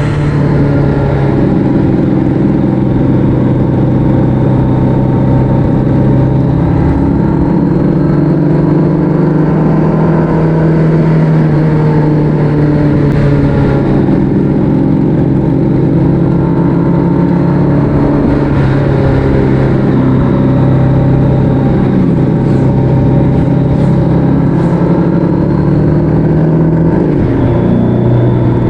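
Motorcycle engine running steadily at road speed, its note rising and falling a little with the throttle and dropping slightly near the end, with wind and road noise.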